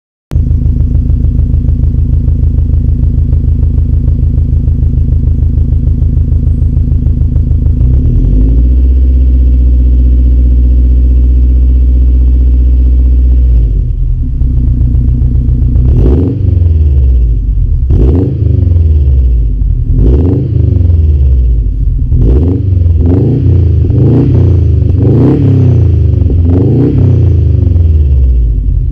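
Subaru WRX STI's turbocharged 2.5-litre EJ25 flat-four engine running through a 3-inch turbo-back performance exhaust with a resonated centre section. It idles for about eight seconds, then holds a steady higher speed for about five seconds. From about sixteen seconds in it is revved in single blips a couple of seconds apart, then in a quick run of blips near the end.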